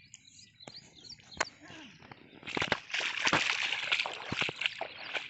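Irrigation water splashing and gurgling as it flows through a field channel, quiet at first and growing to a steady, crackling splash about two and a half seconds in.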